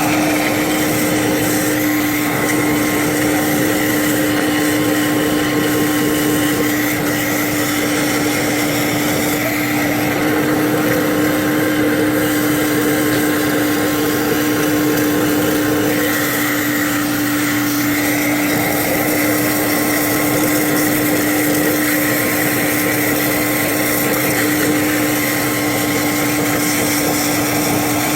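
A machine running steadily, with a constant hum, a higher whine and a hiss over it, the kind of sound a shop vacuum or air-powered cleaning tool makes during intake valve cleaning.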